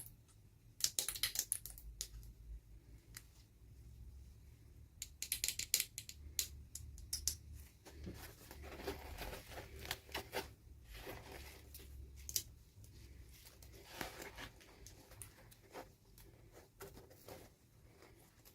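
Toy packaging being opened by hand: bursts of crisp crackling and tearing, loudest about a second in and again around five to six seconds in, then softer scattered rustling.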